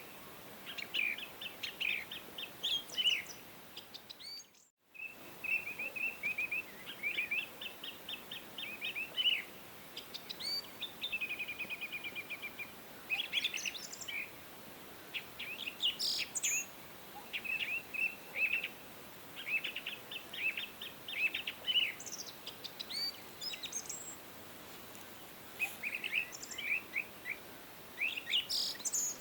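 Songbirds chirping and singing, with many short high notes and a fast, even trill about eleven seconds in, over a faint steady hiss. The sound cuts out completely for about half a second around four and a half seconds in.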